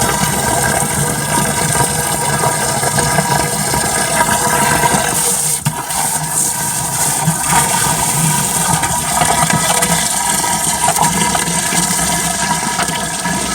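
Stream water pouring steadily into an earthenware jar as it fills, with a brief break just before halfway.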